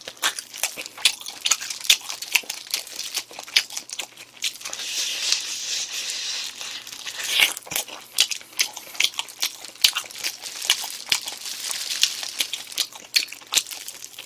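Close-miked biting and chewing of spicy chicken, with many sharp, wet crunches as the bones are chewed. The disposable plastic gloves crinkle, most densely from about five to seven seconds in.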